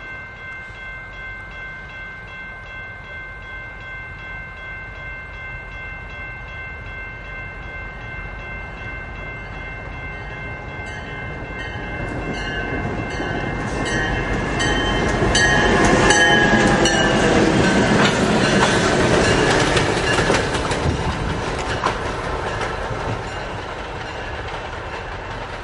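A grade-crossing warning bell rings steadily while a diesel freight locomotive approaches. From about twelve seconds in, the train grows louder as it passes, its wheels clicking over the rail joints, then eases off near the end.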